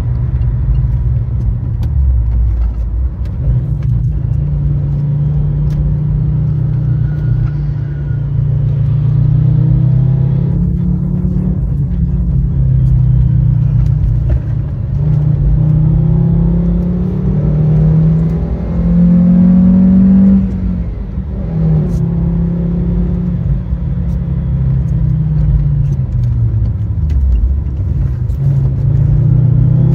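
Fiat Stilo Abarth's 2.4-litre 20-valve five-cylinder engine under load, its revs climbing for several seconds and then dropping away, several times over. The highest climb ends in a sudden drop about twenty seconds in.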